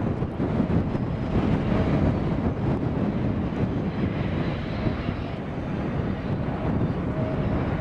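Freight train cars (double-stack container cars, then autoracks) rolling across a steel girder bridge: a steady low rumble of wheels on rail.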